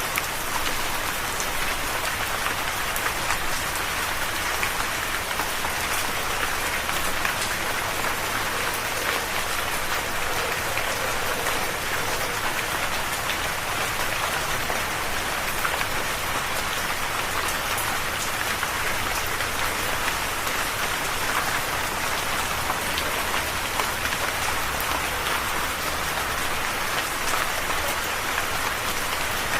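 Steady rain falling on a surface, a dense even patter with many individual drop ticks.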